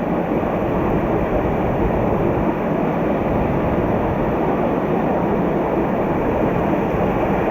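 Mountain stream water rushing steadily over rocks, a loud, even, unbroken rush of water.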